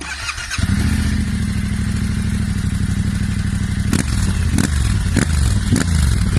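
Yamaha Ténéré 700's 689 cc parallel-twin engine breathing through a Hexan aftermarket silencer. It runs steadily at idle and picks up strongly about half a second in. From about four seconds in the throttle is blipped several times, the revs rising and falling with each blip.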